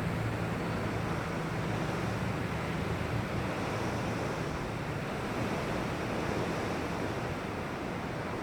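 Strong wind rushing steadily outside.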